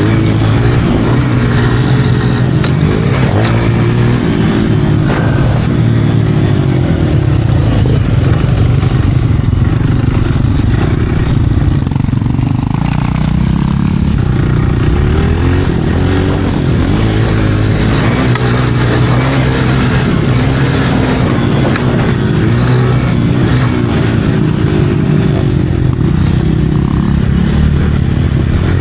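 Dirt bike engine being ridden hard, its pitch repeatedly climbing and dropping as the throttle opens and closes.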